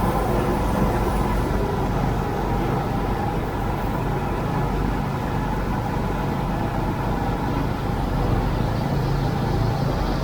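Farm tractor engine running steadily under way, a continuous low drone.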